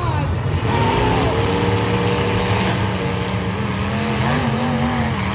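Demolition derby car engines running and revving, their pitch rising and falling a little.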